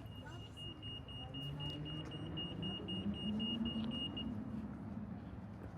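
A vehicle passing on the street, its engine hum swelling in the middle and fading. A high electronic beeper pulses rapidly and stops about four seconds in.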